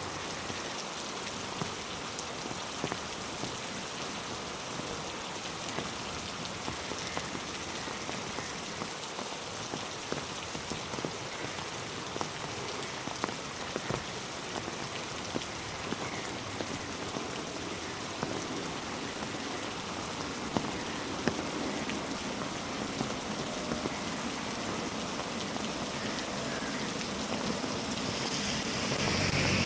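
Steady rainfall, a constant hiss with many individual drops ticking sharply close by; it grows a little louder near the end.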